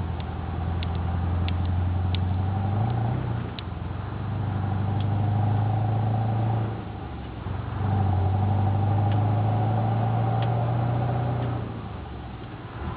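Scania R500's V8 diesel with straight-piped exhaust running, its steady note swelling louder twice, about three and eight seconds in, and easing back in between and near the end.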